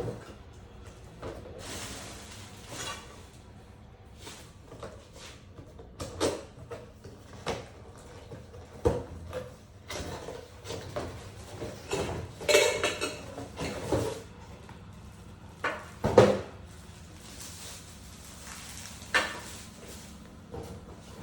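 Coffee-making tools and utensils being handled and set down: scattered clinks and knocks, with a couple of longer rough, noisy stretches, the longest about twelve seconds in.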